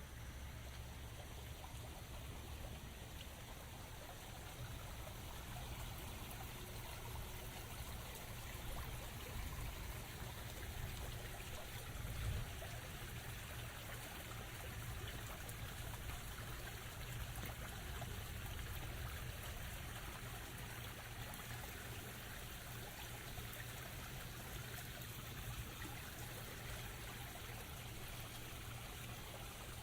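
Steady rain with water running and trickling, an even hiss over a low rumble, with one brief dull bump about twelve seconds in.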